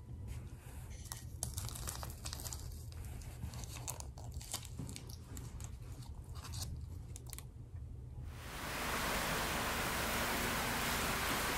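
Irregular crisp crunching and clicking, then a sudden change about eight seconds in to a steady rushing hiss.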